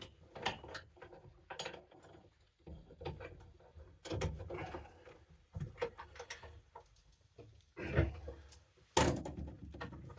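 Irregular knocks and clunks of hand work on a stuck ice auger bit, as it is struck and worked to loosen it.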